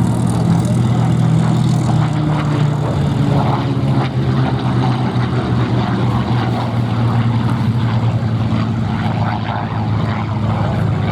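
Supermarine Spitfire's V12 piston engine running steadily in flight, a deep, even propeller drone.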